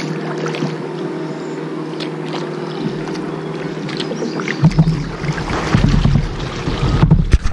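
Steady hum of a nearby motorboat engine, joined about halfway through by loud, low buffeting on the microphone that cuts off suddenly at the end.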